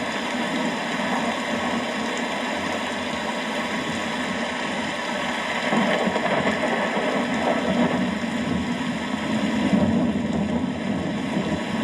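Steady rain falling, a continuous hiss that swells a little about six seconds in and again near ten seconds.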